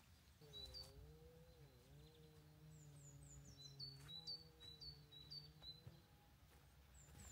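Faint birdsong: a songbird gives a run of short, high, falling chirps in the middle, over a faint low hum whose pitch wavers.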